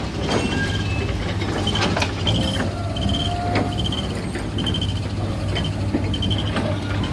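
Heavy roadworks machinery running with a steady low engine hum, while a high warning beeper sounds in short pulses about every 0.7 s, typical of a travel or reversing alarm. Scattered sharp knocks come through on top.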